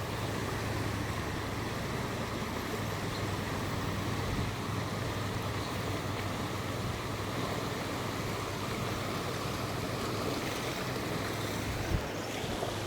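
Steady rushing of flowing river water, with a low steady hum underneath.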